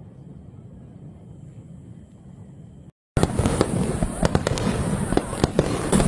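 Aerial fireworks: a low, distant rumble, then, about three seconds in, a sudden loud, dense barrage of many rapid bangs and crackles.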